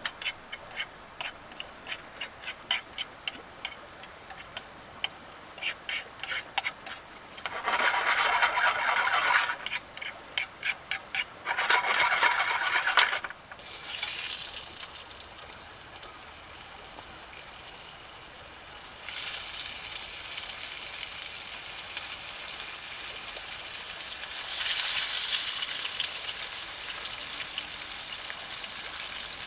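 A quick run of sharp taps, then two short bursts of stirring, then food sizzling in a hot pan, the sizzle growing louder in two steps.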